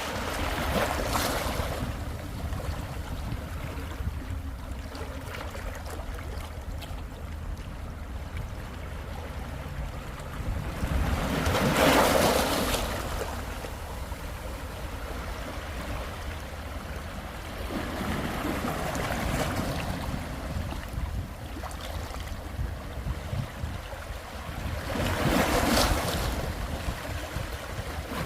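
Sea waves washing in and breaking on the shore, four surges that swell and fade, the biggest about twelve seconds in. A steady low rumble of wind on the microphone runs underneath.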